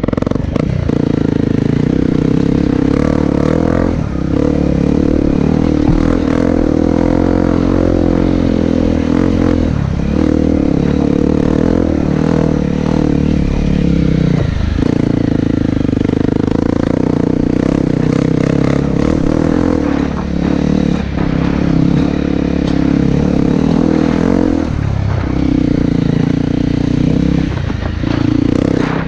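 Dirt bike engine running at steady throttle on the move, its note dipping briefly about half a dozen times as the throttle is eased.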